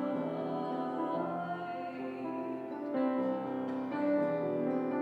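A slow song performed live, with long held notes over instrumental accompaniment.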